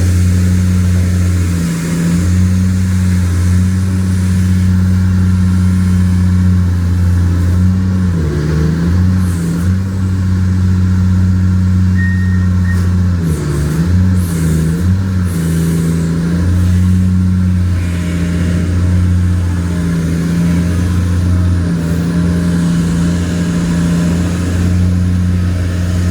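Large excavator's diesel engine running steadily, its pitch dipping briefly a few times in the middle as the load comes on.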